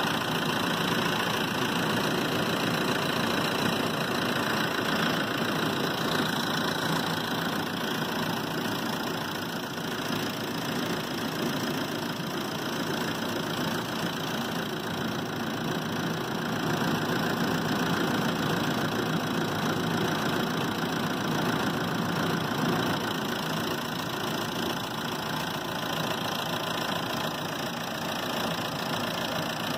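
Car engine idling steadily with the air-conditioning compressor engaged, drawing refrigerant into the system during a regas.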